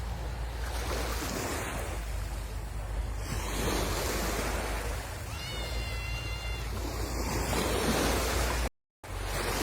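Sea waves washing onto the shore with a steady rush, and wind rumbling on the microphone. A little past the middle, a brief high pitched tone sounds faintly, and the sound cuts out for a moment near the end.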